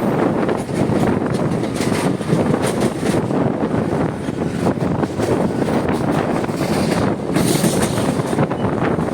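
Mumbai suburban local train running, a steady rumble with wheel clatter and wind buffeting the microphone.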